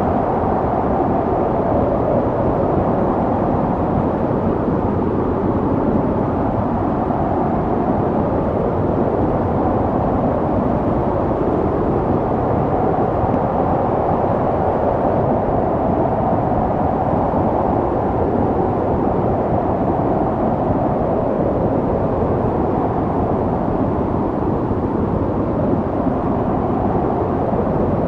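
Snowstorm wind blowing steadily: a dense, unbroken rush with slow, gentle swells in pitch and no separate gusts or knocks.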